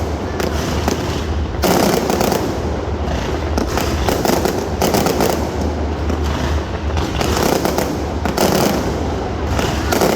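Fireworks display: a dense, continuous run of booms and crackling bursts, with several louder clusters and no pause.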